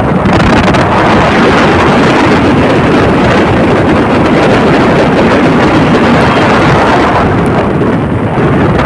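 Loud, steady wind buffeting on the microphone, mixed with the running of motor vehicles. It eases slightly near the end.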